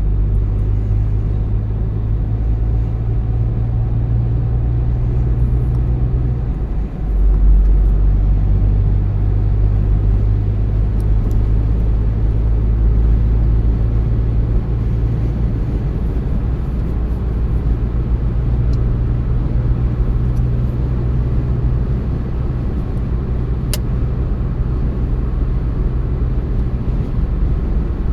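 A car driving on the road: a steady low engine drone with tyre and road noise. The drone dips briefly about seven seconds in, then picks up again louder. There is a single sharp click near the end.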